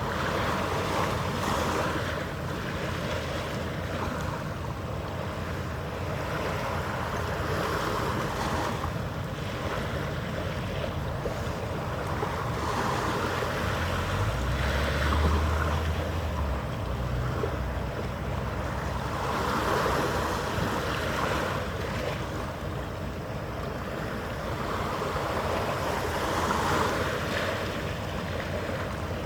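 Harbour water washing in slow swells, every few seconds, with wind buffeting the microphone and a faint steady hum underneath. A brief low rumble comes about halfway through.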